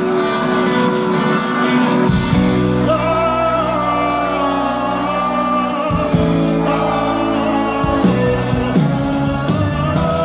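Live sertanejo band music played loud through a concert sound system: a wavering lead melody line over sustained chords and a bass line that changes every couple of seconds.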